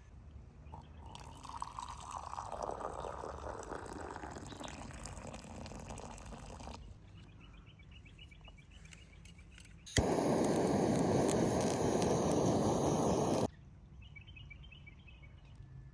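Liquid pouring: a longer, softer pour in the first half, then a louder one about ten seconds in that starts and stops suddenly and lasts some three seconds.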